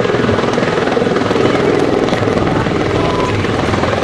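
V-22 Osprey tiltrotor flying overhead: its twin turboshaft-driven proprotors make a loud, steady rotor beat with a fast fine chopping.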